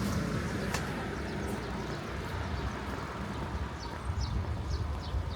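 Outdoor street ambience with a steady low rumble of traffic. From about two-thirds of the way in, a small bird gives short, quick, repeated chirps, each sliding down in pitch.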